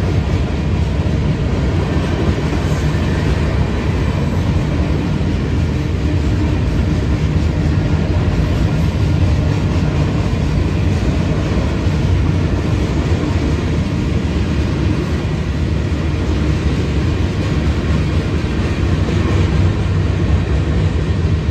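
Union Pacific freight train rolling past, a steady low rumble of railcars on the rails.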